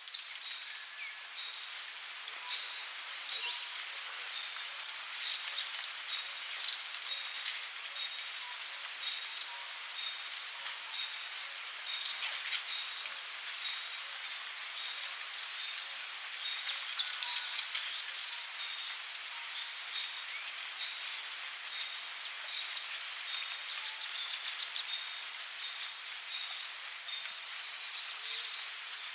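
Tropical forest ambience: a steady high-pitched drone of insects with many small bird chirps and calls scattered through it, and a few louder short calls about three seconds in, near seven seconds, near eighteen seconds and twice around twenty-three seconds.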